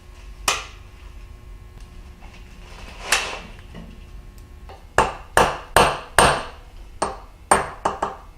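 Hammer striking metal with a short ring: two single blows a few seconds apart, then a quick run of about eight blows, roughly two or three a second.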